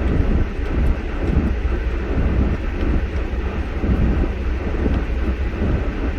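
Vehicle driving along snow-covered streets: a steady low rumble of engine and tyres that wavers slightly in level.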